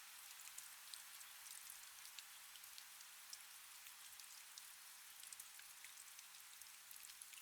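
Faint, steady light rain: a soft hiss with many small drop ticks scattered through it.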